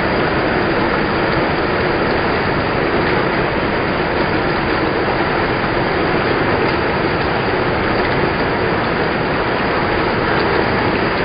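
Heavy rain falling, a loud steady rushing noise with no break.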